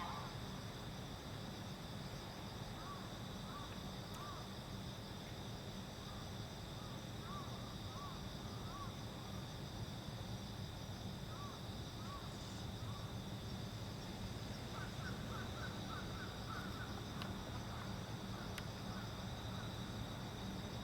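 Steady high chirring of night insects over a low, even hum, with faint short chirps now and then. There is no announcement in this stretch.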